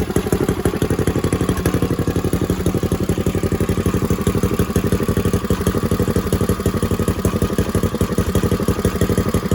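Freshly rebuilt Predator 212 single-cylinder four-stroke engine running steadily through its break-in, with no bearing knock.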